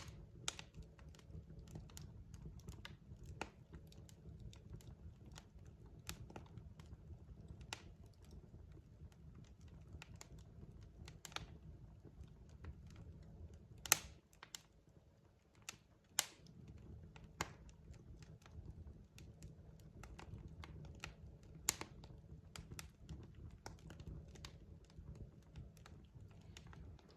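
Wood fire burning in a fireplace: irregular crackles and snaps from the logs over a steady low rumble, with two sharper pops about halfway through.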